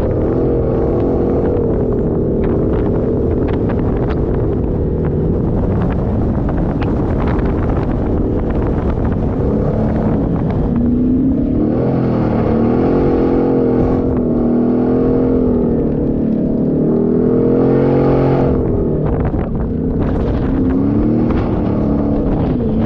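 Off-road 4x4 engine revving up and down as it is driven, its pitch repeatedly rising and falling, with frequent knocks and rattles.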